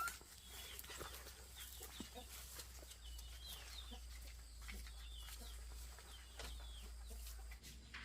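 Domestic chickens calling faintly, a series of short high peeping calls every second or so.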